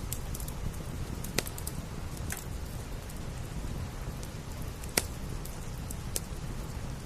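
Steady rain hiss with a low rumble, over a crackling wood fire giving a few sharp pops, the loudest about five seconds in.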